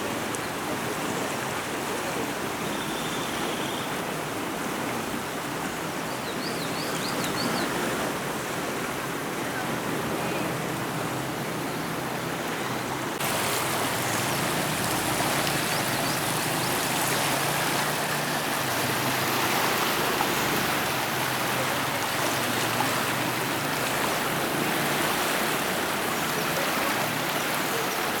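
Rushing water of a swollen, flooded river running fast, a steady rush that gets louder and brighter about halfway through. A couple of faint high chirps are heard in the first few seconds.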